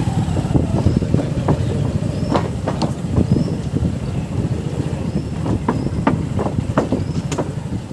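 Motorcycle engine running under way with wind rushing over the microphone, broken by several sharp knocks.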